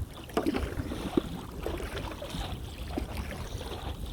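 Stand-up paddleboard paddle dipping and pulling through the water in a few irregular splashes, over a steady low rumble of wind on the microphone.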